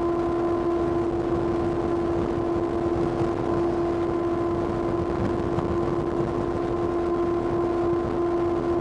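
Kawasaki ZX-6R's inline-four engine running at a steady high pitch, holding constant revs while cruising, over a haze of riding noise.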